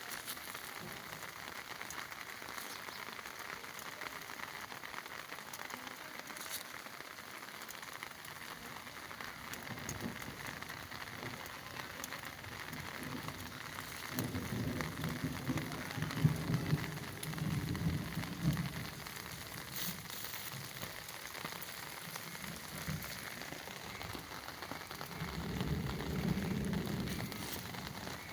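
Steady heavy rain falling and splashing on hard surfaces. A low rumble rises over it twice, in the middle and near the end.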